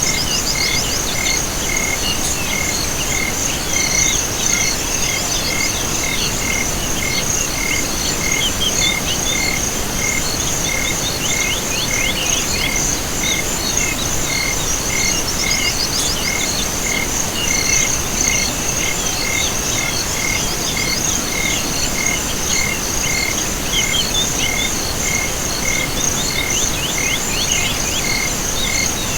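Night chorus of insects and frogs: a continuous high insect trill, a regular pulsed call a little more than twice a second, and short bursts of rapid chirps now and then, over an even hiss.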